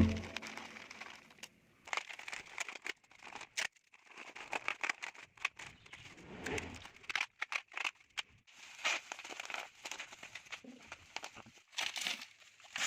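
Irregular crinkling and clicking noises in short bursts, with brief gaps between them.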